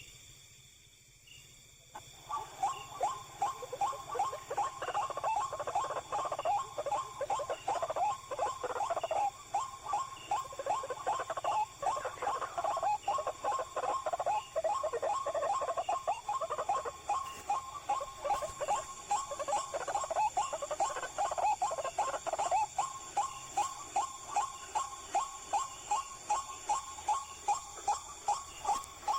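White-breasted waterhen calling: a loud, fast, rhythmic series of croaking notes that starts about two seconds in and runs on without a break.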